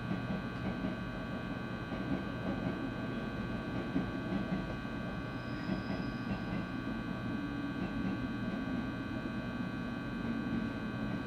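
Interior of a JR West 223-series electric train car: a steady electrical hum with several fixed-pitch tones from the onboard equipment over a low rumble, with only faint scattered ticks.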